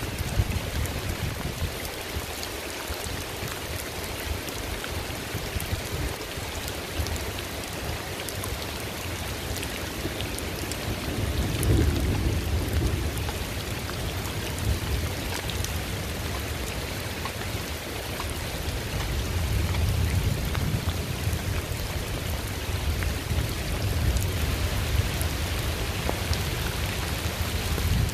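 Steady rain falling, a dense hiss with many separate drop ticks on a surface, and low swells of sound about twelve and twenty seconds in.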